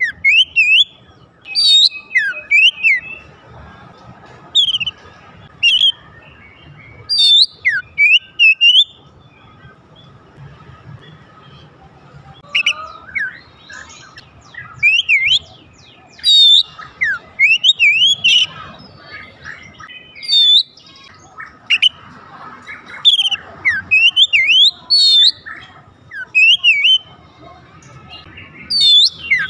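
Oriental magpie-robin (kacer) singing: loud, varied whistled phrases of quick up-and-down slurred notes, delivered in short bursts with brief pauses between them, quieter for a few seconds about a third of the way in.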